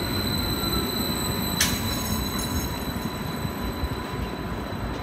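Vy electric passenger train rolling slowly alongside the platform as it pulls in: a low rumble with a steady high-pitched squeal over it, and one sharp click about one and a half seconds in.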